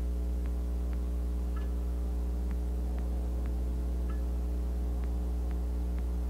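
Steady low electrical hum, mains-like, with faint soft ticks roughly twice a second.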